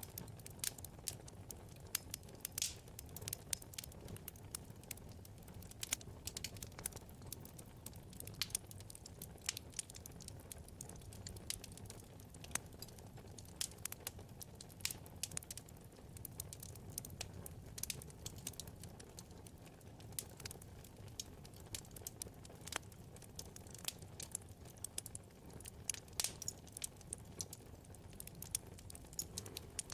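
Wood fire in a fireplace crackling: many irregular sharp pops and snaps over a soft, steady low rumble of burning.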